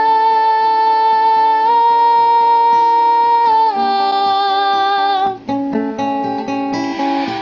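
A high singing voice holds one long note at the end of a sung line, stepping slightly up in pitch partway and easing down, then an acoustic guitar plays a plucked accompaniment on its own.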